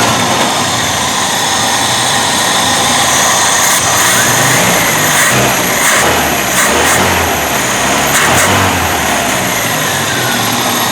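Freshly rebuilt 1.7-litre UZAM four-cylinder engine of a Moskvich 412 running just after being started. The engine speed rises and falls a few times in the middle.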